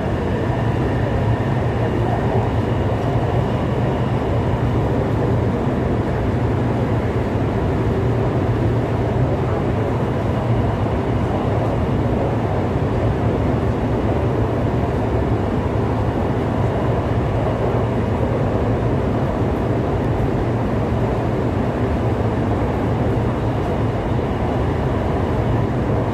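Cabin noise of an SP1900 electric multiple unit (Kinki Sharyo/Kawasaki) running along the line: a steady low rumble of wheels and running gear. A faint high whine fades out in the first few seconds.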